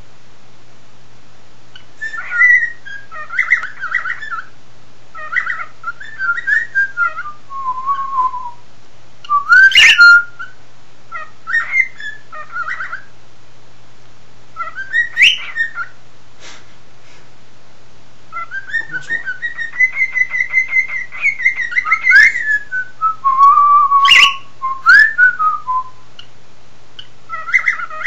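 Pet cockatiel whistling its song in short warbling phrases that rise and fall, broken by pauses, with a few sharp, loud upward chirps.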